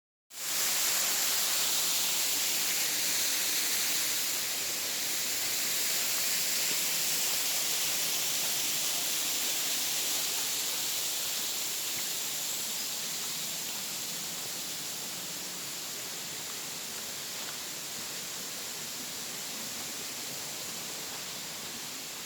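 Waterfall rushing as a steady hiss, slowly growing fainter.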